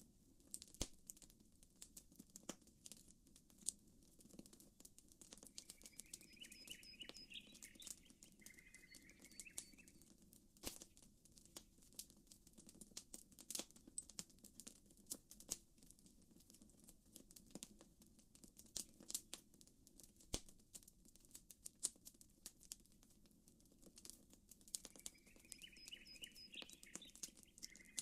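Campfire crackling softly with irregular sharp pops and snaps, over a low steady murmur of gentle water ripples. A bird's short chirping phrase comes twice, about six seconds in and near the end.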